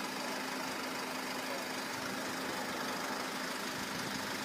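Steady hum of engines idling, with an even hiss and a faint constant low tone throughout.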